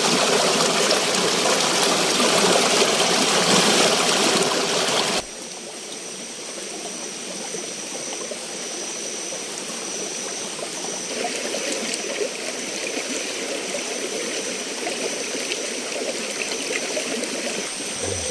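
Flowing water of a forest stream rushing steadily, then suddenly quieter about five seconds in, where a steady high-pitched whine joins the running water.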